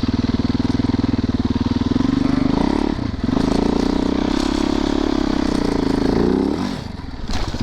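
Dirt bike engine running under a rider's throttle. The revs rise about two seconds in, dip briefly near three seconds as in a gear change, hold higher, then fall off near the end as the throttle closes.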